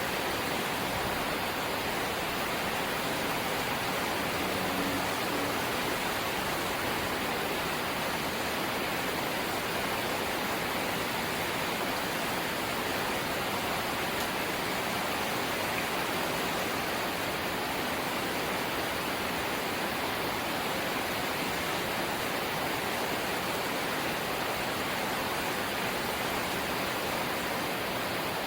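Rain falling steadily on a house's corrugated zinc roof, an even, unbroken hiss.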